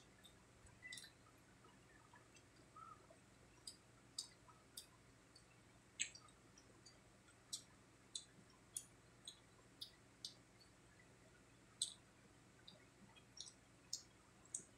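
Close mouth sounds of eating crispy fried pork cheek with rice: sharp wet clicks and smacks of chewing, scattered irregularly about one or two a second over a quiet background.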